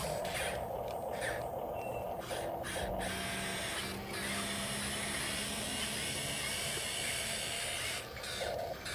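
Small electric motor and gearbox of a radio-controlled scale truck whining steadily as it drives.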